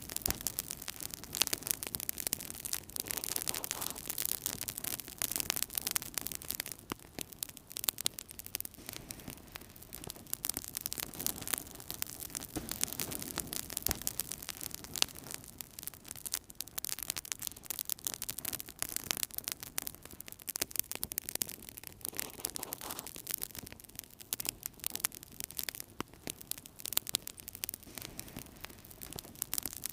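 Wood fire burning in a fireplace, crackling with many small pops and snaps over a steady hiss.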